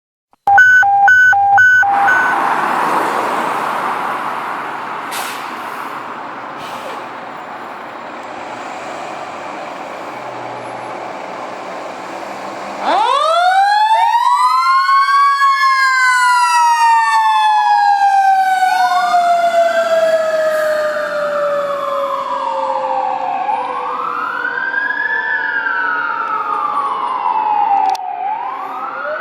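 A fire engine's Federal Q2B mechanical siren winds up to a high wail, then coasts slowly down in pitch and is wound up again three more times. Before it, near the start, come four short horn blasts, followed by a rushing engine and road noise that fades.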